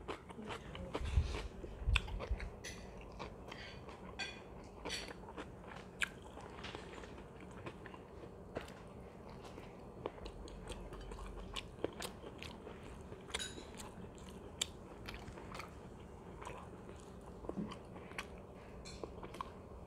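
Close-miked chewing and eating of chicken biryani by hand, with many sharp wet mouth clicks throughout. Two low thumps come about one and two seconds in.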